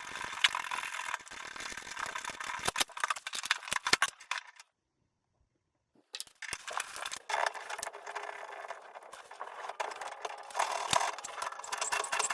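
Irregular small metal clicks, taps and rattles of hand tools and parts being handled at a Moen shower valve during cartridge replacement, broken by a second and a half of dead silence.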